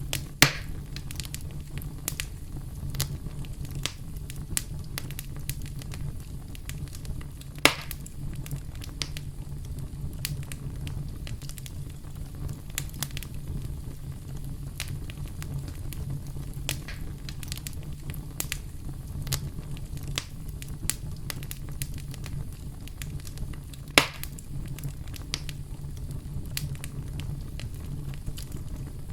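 Wood campfire crackling: a steady low rumble of burning with frequent small pops, and three louder snaps, about half a second in, near eight seconds and about 24 seconds in.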